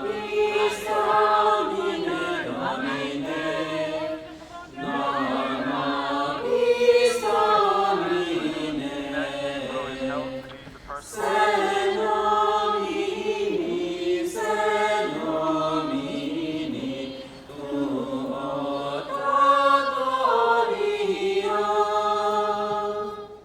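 Voices chanting together in unison, a slow sacred chant sung in long phrases with short breaks between them.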